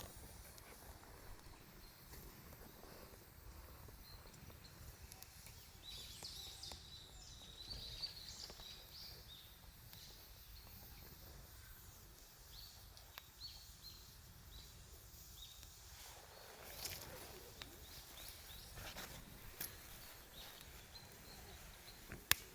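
Wood campfire burning quietly, with scattered faint crackles and one sharp pop near the end.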